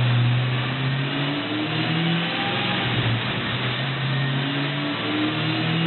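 Supercharged 4.6 L DOHC V8 of a 2004 Mustang Cobra with a Snakebite blower, running with light throttle blips: its pitch rises briefly about two seconds in and again near the end.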